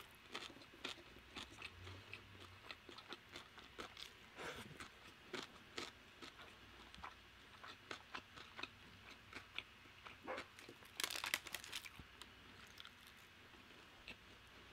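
Quiet chewing of crispy Korean fried chicken: a run of small crunches and bites, with a louder crunch about eleven seconds in.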